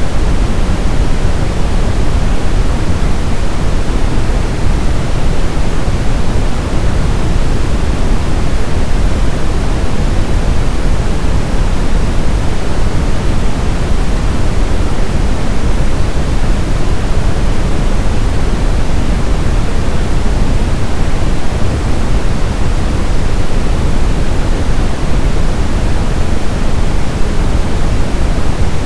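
Brown noise: a steady, loud, even hiss weighted heavily toward the bass, with no tones or events.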